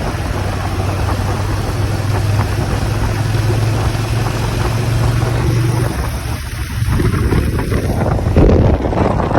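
Motorcycle engine running while riding, with wind buffeting the microphone. The engine note holds steady, drops about six seconds in, then climbs again, and a short loud burst of wind comes near the end.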